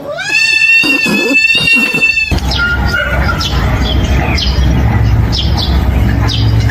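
A cat's long drawn-out yowl, rising at first and then held steady for about two seconds. It cuts off suddenly. It is followed by a loud noisy stretch with a low rumble and short, high, falling squeaks.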